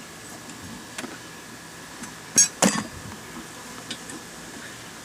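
A few short clinks and knocks of beekeeping gear being handled, the loudest a quick double clink about two and a half seconds in.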